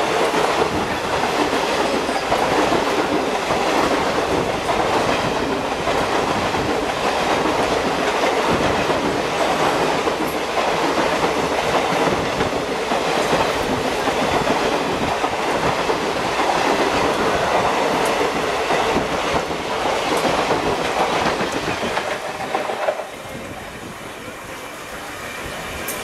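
A train passing at speed, its wheels clattering rapidly over the rail joints; the noise drops away sharply near the end as the train goes by.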